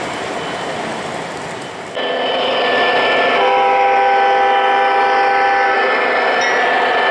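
O gauge model locomotive's onboard sound system sounding a multi-note train horn chord, held for a couple of seconds midway, over the running noise of the train on the track. The sound jumps abruptly louder about two seconds in.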